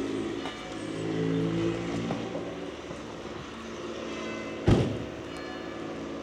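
A motor vehicle passing on a wet street, with one sharp, loud thump about four and a half seconds in.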